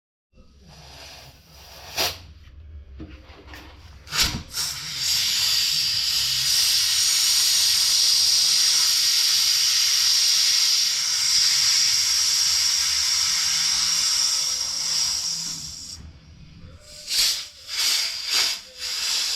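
Air hissing loudly and steadily through the valve of a mountain bike tyre for about eleven seconds. It starts about four seconds in after a couple of sharp clicks and fades out about three seconds before the end, followed by more clicks and handling noises.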